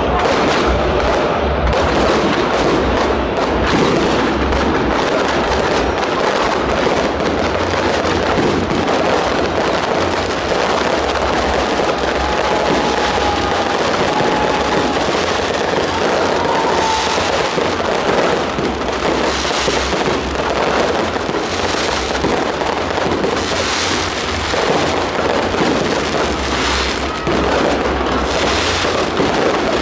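Fireworks display with a dense, continuous crackle of bursts and bangs that stays loud and even throughout.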